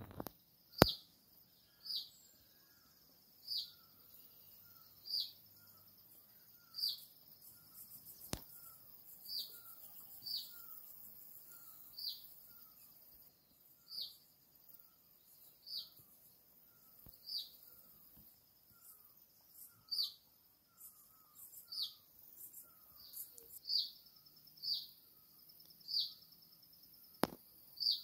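A bird repeats a short, high call about every one and a half to two seconds, over a steady high insect buzz and fainter, lower chirps. A few sharp clicks, the loudest about a second in.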